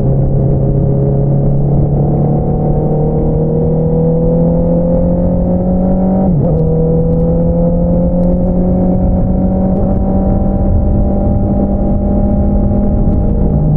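Honda CBR650R inline-four through an Akrapovič single-outlet exhaust, pulling steadily with the revs slowly rising. About six seconds in there is a quick upshift, the pitch drops, and then it climbs again. Wind rush sits underneath.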